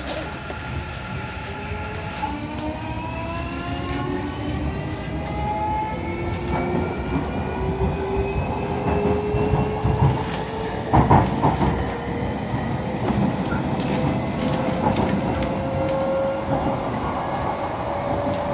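JR Kyushu 305 series electric train heard from inside its motor car. The VVVF inverter and traction motors whine, rising steadily in pitch as the train gathers speed, over the rumble of wheels on rail. Sharp rail-joint clacks come about halfway through.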